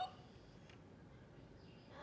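Near silence: quiet room tone, with one faint click a little under a second in and a faint sound starting just before the end.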